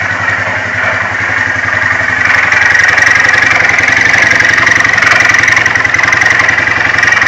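2008 Polaris 400 Sportsman HO's single-cylinder four-stroke engine idling with a steady rapid knocking rattle, louder from about two seconds in. This is the knock the owners hear mainly at idle and say goes away when the engine is given RPM.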